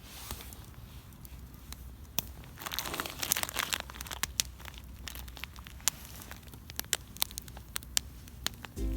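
Wood campfire crackling with irregular sharp pops, and a burst of crinkling rustle about three seconds in.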